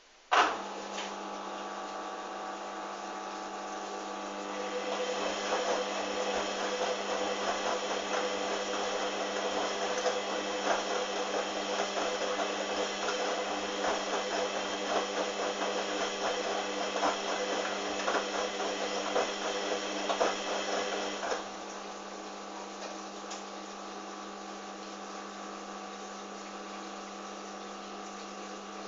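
Hoover washing machine: a loud click just after the start, then its motor running with a steady hum. From about four seconds in a louder, rough crackling noise joins, and it cuts off suddenly about twenty-one seconds in, leaving the hum.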